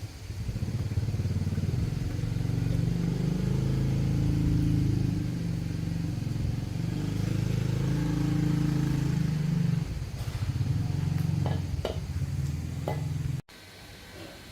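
A small engine running, its speed rising and falling a few times, then stopping abruptly near the end.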